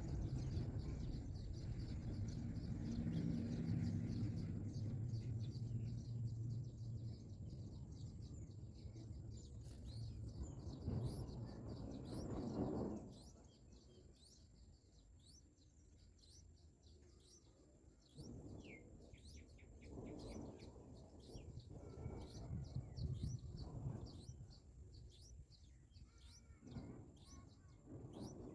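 Small birds chirping: thin, high chirps repeated rapidly, several a second, over a faint steady high whine. A low rumbling noise fills the first part and drops away about halfway through, leaving the chirps clearer, with a few further low rumbles later.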